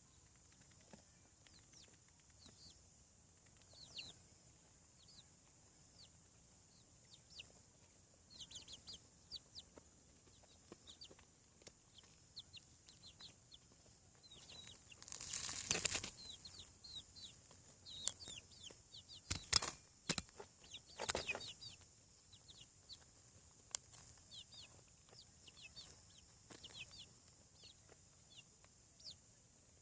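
Young chickens peeping in short, falling chirps throughout, with a burst of wing-flapping about halfway and a few sharp knocks a few seconds later.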